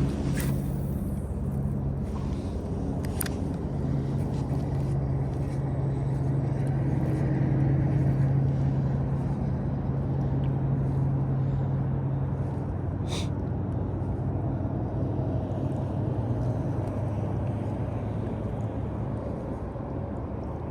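A motor vehicle's engine hums steadily, then fades away about two-thirds of the way through, over a constant rushing background noise. A few faint clicks sound near the start and the middle.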